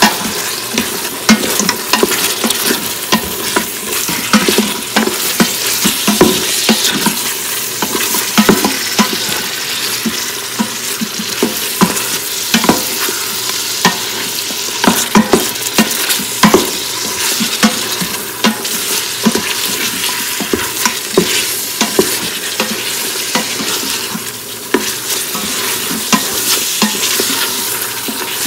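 Beef and spice masala frying in an Instant Pot's stainless steel inner pot, sizzling steadily while a spoon stirs and scrapes against the pot with frequent knocks. This is the bhuna stage, browning the meat with small splashes of water.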